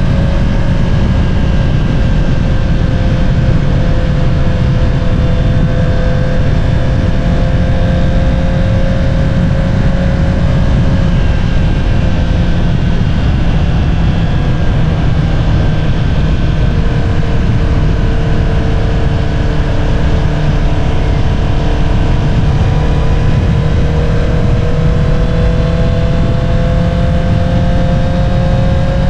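2022 Honda CBR650R inline-four breathing through an Akrapovič single-outlet exhaust, cruising at a steady throttle. Its note eases slightly lower through the middle and rises again over the last several seconds, over a steady low rumble.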